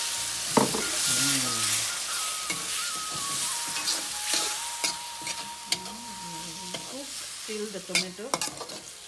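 Chopped tomatoes and curd sizzling in hot oil in a steel kadai, with a steel spatula scraping and clicking against the pan as they are stirred. The sizzle is loudest at first and dies down as the tomatoes cool the oil, while the spatula clicks stand out more towards the end.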